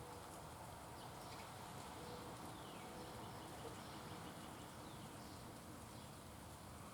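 Faint outdoor ambience with distant wild birds calling: a few thin high notes, two of them sliding downward, over a steady background hiss.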